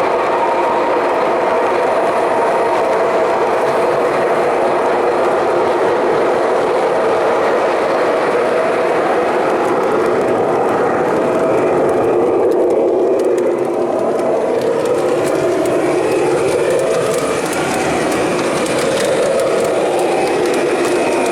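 O scale model train running steadily on the layout track, a continuous loud rolling noise.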